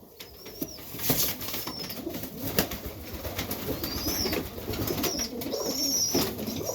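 Serbian highflyer pigeons cooing in the loft: a low, wavering murmur, with short high chirps several times and scattered light knocks.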